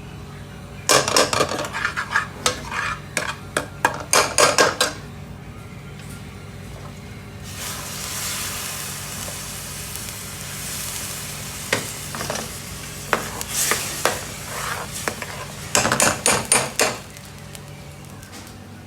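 Metal utensils clattering and scraping in cooking pans, with a burst of sizzling in the middle as food fries, and more clatter near the end, over a steady low hum.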